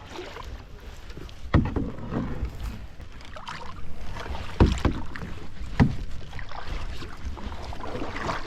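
Two people paddling a canoe on a river: paddle strokes in the water, with a few sharp knocks, the loudest about one and a half, four and a half and six seconds in.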